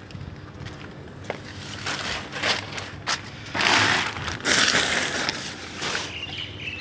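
Handling noise around a stripped-out car body: a few sharp clicks, then two long stretches of scraping, crunching noise about halfway through.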